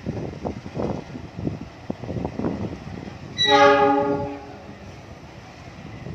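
Train passing with a run of uneven clattering knocks, then a train horn sounding once for about a second, a little over halfway through, the loudest sound.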